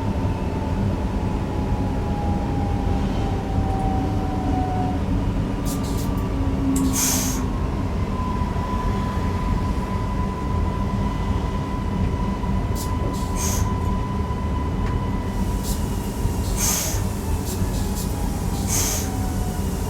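Newag Impuls EN63 electric multiple unit running, heard from the driver's cab: a steady rumble with a thin electric whine that slowly falls in pitch and later rises. There are a few short hisses along the way.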